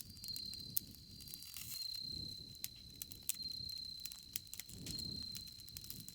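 Campfire crackling with scattered sharp pops and soft low swells of the burning fire, over a steady high trill of insects.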